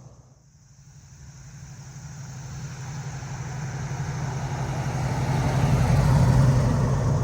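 Motor vehicle engine running at low revs with a steady throb. It starts faint, grows steadily louder to a peak about six seconds in, then begins to ease off.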